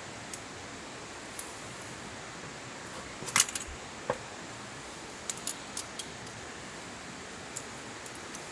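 Light metallic clinks and clicks, a quick cluster about a third of the way in and one ringing clink just after, then a few softer ticks, over a steady hiss.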